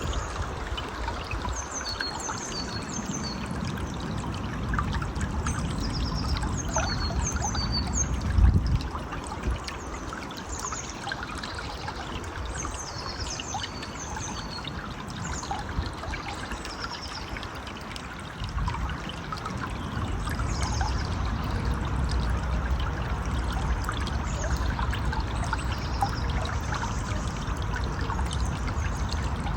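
Stream water trickling and flowing steadily, with birds calling in short, high chirps, most often in the first half. A brief low thump about eight seconds in is the loudest moment.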